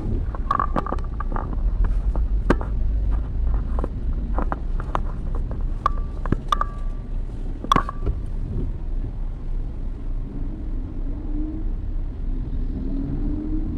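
Steady rumble of a car's engine and road noise inside the cabin. Scattered sharp clicks and a few short tones come in the first eight seconds, and from about ten seconds in the engine note rises and falls gently.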